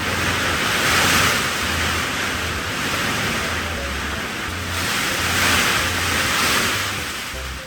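Loud rushing noise that swells up about a second in and again near the end, like surf, wind or passing traffic, over the low bass notes of background music.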